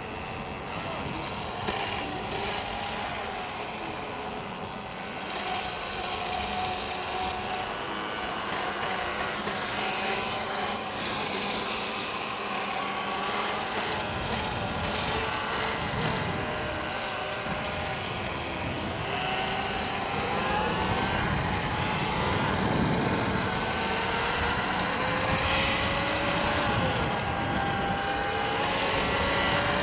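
Electric dirt bike motors whining, their pitch rising and falling with speed over a steady rushing noise.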